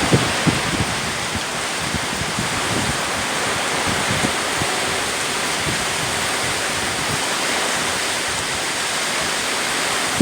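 Strong storm wind blowing steadily, with a few low gusts buffeting the microphone in the first second.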